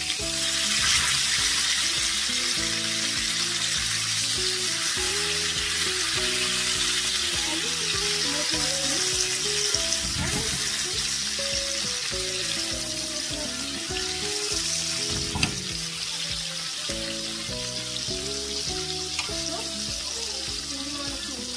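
Mince kebabs and tomato slices sizzling steadily as they shallow-fry in oil in a pan, while a spatula turns them. One sharp knock about fifteen seconds in.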